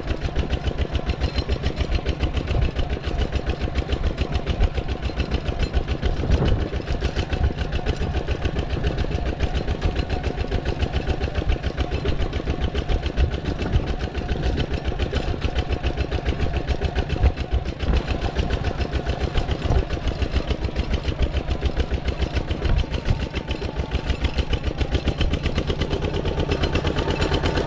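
Small engine running steadily, with a rapid, even pulse.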